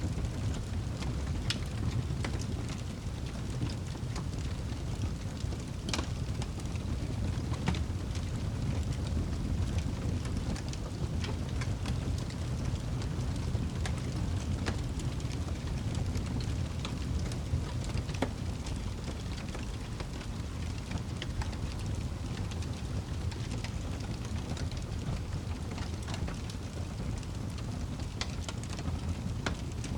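Campfire crackling: irregular sharp pops and snaps from burning wood over a steady low rushing sound.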